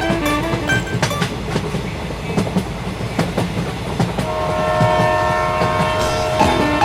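A train passing with a steady rumble and scattered wheel clicks. About two-thirds of the way in, its horn starts sounding a steady held chord.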